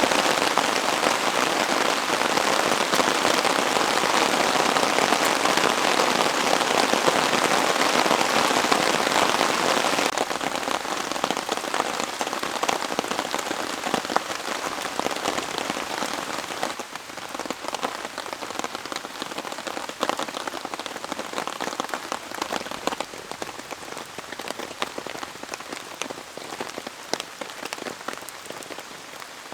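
Heavy rain pouring down, a dense hiss of countless drops pattering on surfaces. It is loudest at first, then eases noticeably about ten seconds in and again a little later.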